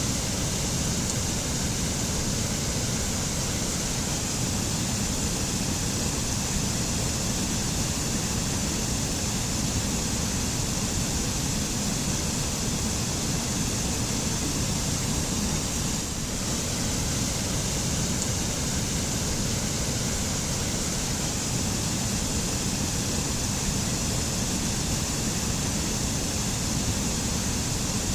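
Waterfall pouring steadily in an even, unbroken rush of water, with a deep low rumble and a bright hiss.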